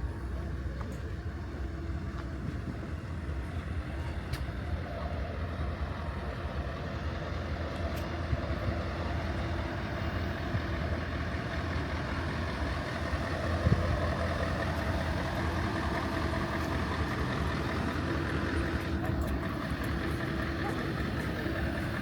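Diesel truck engine running steadily, a low rumble with an even drone, and a single knock a little past the middle. Voices murmur faintly in the background.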